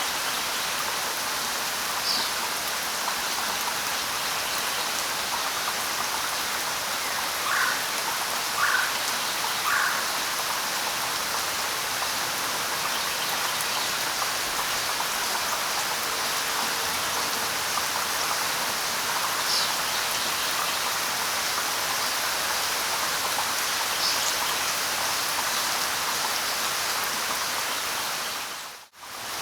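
Steady light rain falling, with a few short bird chirps now and then. The sound briefly drops out almost to silence just before the end.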